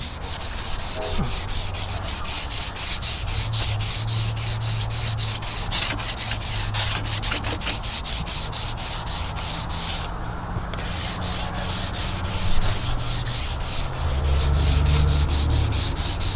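Sandpaper rubbing back and forth over a boat's surface by hand in quick, even strokes, about four to five a second, with a brief pause about ten seconds in.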